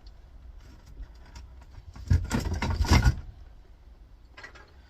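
Plastic housing of a flatscreen computer monitor being handled and pulled apart: a noisy burst of scraping and knocking for about a second, about two seconds in, then a couple of faint clicks near the end.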